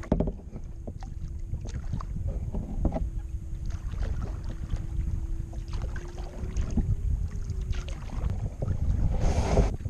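Kayak being paddled toward shore: paddle strokes splashing in the water, with scattered knocks of the paddle against the hull and wind rumbling on the microphone. A faint steady hum runs through most of it, and a louder rush of noise comes near the end.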